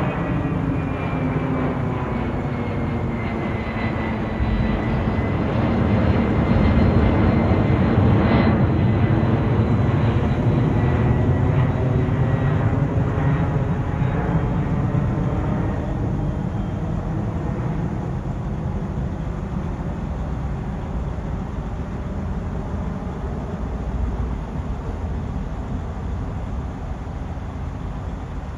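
Jet airliner's engines passing by: a loud roar with a whine that slowly falls in pitch. It is loudest several seconds in, then gradually fades as the aircraft moves away.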